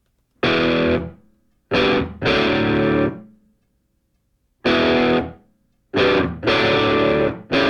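Rock music: distorted electric guitar chords played in stop-start hits, each held for under a second, with dead silences between.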